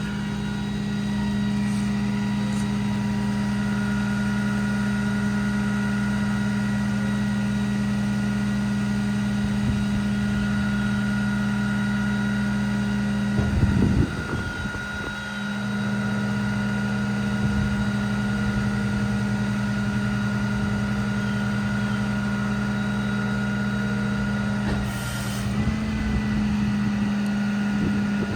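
Cummins diesel engine of a Ram 5500 truck running steadily, with a few knocks about halfway through and a short hiss near the end.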